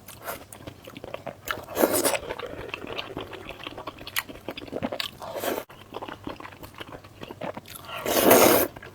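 A person eating close to the microphone: biting and chewing, with many small crackling mouth clicks and louder bursts about two seconds in and again near the end.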